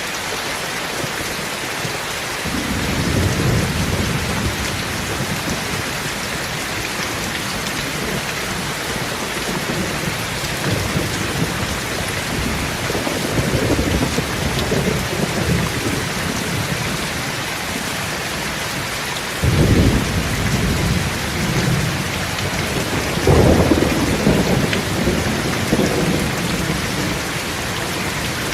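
Steady rain, with low rumbles of thunder coming and going. The loudest rumble starts sharply about twenty seconds in, and another follows a few seconds later.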